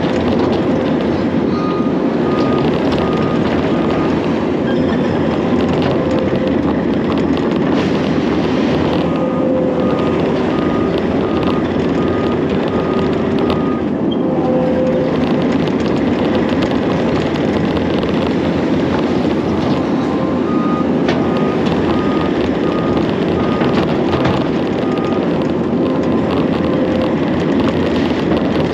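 Heavy construction machine engine running steadily, with its backup alarm beeping about twice a second in three separate stretches as the machine reverses.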